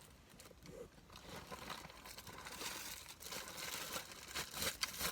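Packaging and the dryer's bag being handled, crinkling and rustling in irregular bursts with small clicks, busier from about two seconds in.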